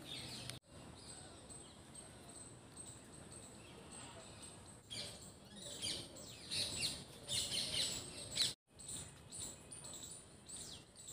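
Birds chirping and calling, many short high chirps that are busiest in the middle.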